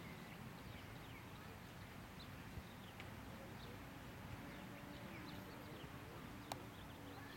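Faint outdoor ambience: small birds chirping in short falling notes over a steady low rumble, with one sharp click about six and a half seconds in.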